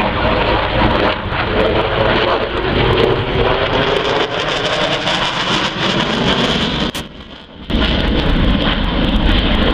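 Piston-engined display aircraft flying, their engines droning under heavy wind buffeting on the microphone. The sound drops away sharply for about half a second near seven seconds in.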